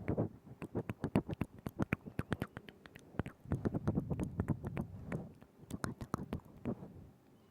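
ASMR mouth sounds made right up against a binaural microphone: a fast, irregular run of wet tongue and lip clicks and smacks, with softer moist sounds in between.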